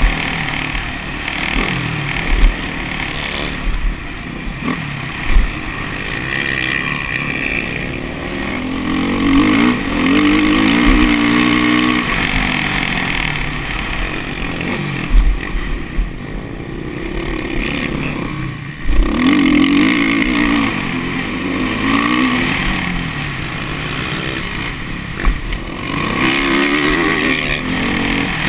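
Motocross bike engine revving up and down over and over, its pitch climbing and falling with each burst of throttle, with sharp low knocks now and then.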